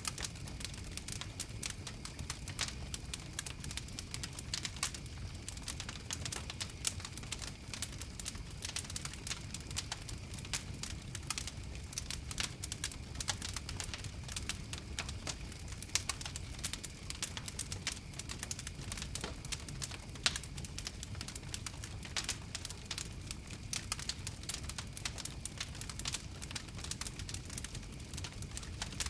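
Wood fire crackling: a dense, steady stream of small sharp pops and snaps over a low rumble, with a few louder pops scattered through.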